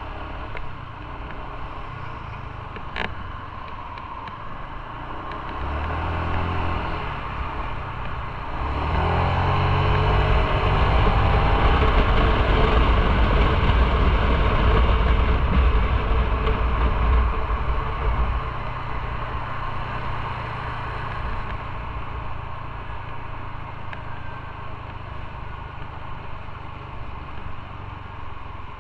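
Motorcycle engine under way: it picks up speed about six seconds in and again, louder, about nine seconds in, with the engine pitch rising, then eases back to a steadier, quieter run for the last ten seconds.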